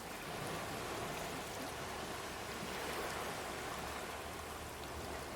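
Sea water washing steadily over a rocky shore, an even, continuous hiss without distinct breaking waves.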